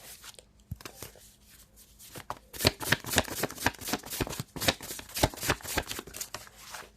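Tarot cards being shuffled by hand: a few scattered card clicks, then a quick run of dense flicking clicks from about two and a half seconds in.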